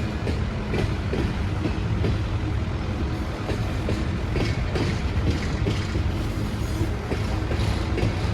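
A train running along the tracks: a steady low drone with wheels clicking irregularly over the rails.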